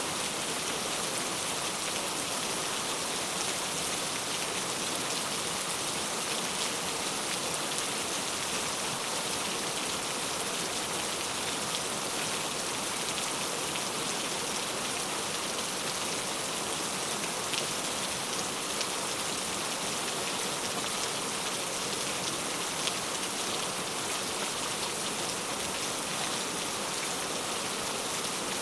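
Steady rain falling on a surface, a dense even hiss of drops with a few individual drop ticks standing out, with no thunder.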